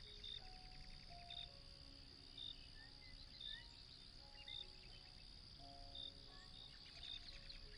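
Faint night ambience of crickets: short high chirps about once a second over a steady high insect trill, with a soft, slow melody of held notes underneath.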